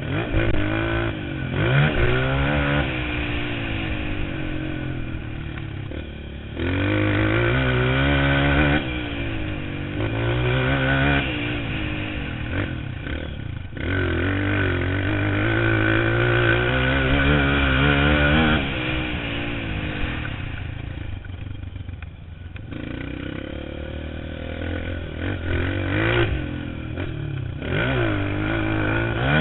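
Motocross bike engine revving hard, its pitch climbing again and again and dropping back between climbs as the rider works the throttle and gears, with some clatter. The engine eases off for a few seconds about two-thirds of the way through.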